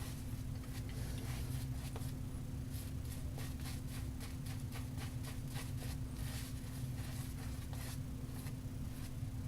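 Shaving brush working a tallow shaving-soap lather, with soft, irregular brushing strokes over a steady low hum.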